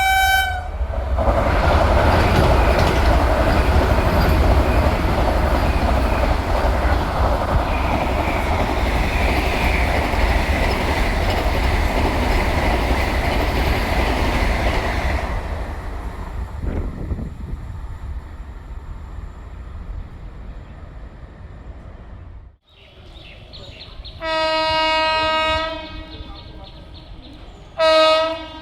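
An electric train running through the station at speed: a loud rushing rumble that slowly fades away. After a sudden break, a train horn sounds twice, a blast of about two seconds and then a short one near the end.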